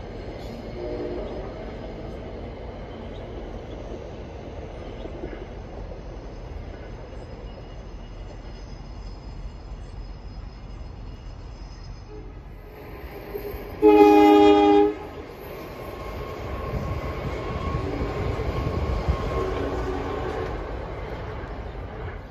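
Passenger train running over a bridge with a steady rumble, then a train horn sounding once for about a second, the loudest thing heard. Near the end a rumble builds again.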